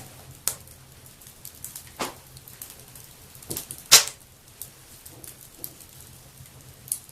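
Wood fire burning in a fireplace, crackling with irregular sharp pops over a faint hiss; the loudest pop comes about four seconds in.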